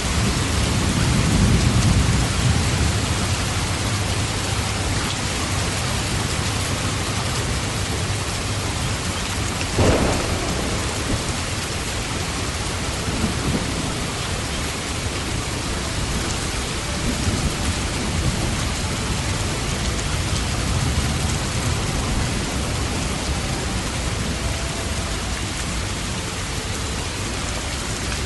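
Steady rain falling hard, with thunder. A low rumble swells in the first few seconds, and a sharp thunder crack comes about ten seconds in.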